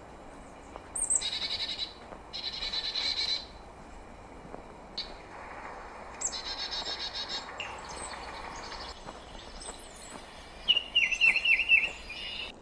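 Chickadees calling in several separate phrases, each opening with a high note and running into a rapid string of buzzy notes, the typical chick-a-dee call. Near the end a quick series of short, louder notes from a bird.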